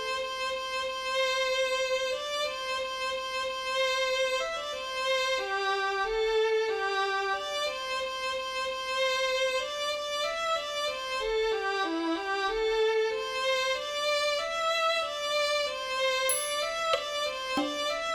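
Notation-software (MuseScore 3) playback of a Thai classical overture melody in a sustained, violin-like tone: a single line moving between long held notes. A few sharp, high strokes come in near the end.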